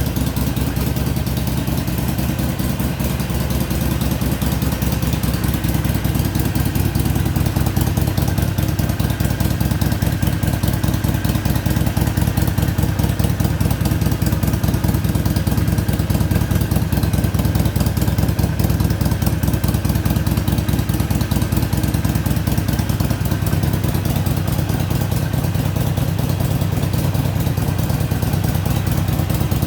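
2014 Harley-Davidson Iron 883's air-cooled V-twin idling steadily through its stock exhaust, a deep even lope with no revving.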